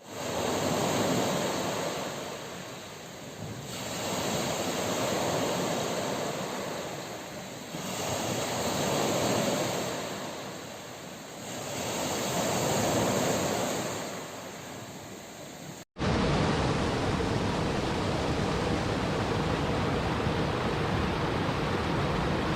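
Sea waves washing onto a shore, each swell rising and falling about every four seconds. About sixteen seconds in, the sound cuts abruptly to a steady rushing noise.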